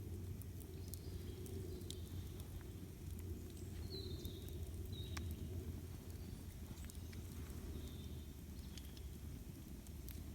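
Campfire burning with scattered sharp crackles and pops over a steady low rumble. A few short bird chirps sound high above it.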